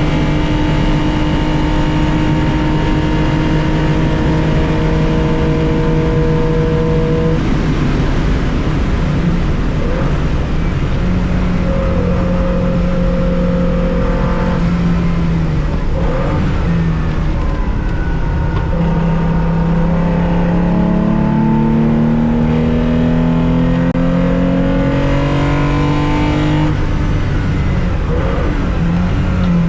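Air-cooled 2.0-litre flat-six of a 1965 Porsche 911, heard from the cockpit at racing speed. It holds high revs, changes gear about seven seconds in, then climbs steadily in revs for several seconds before an upshift near the end.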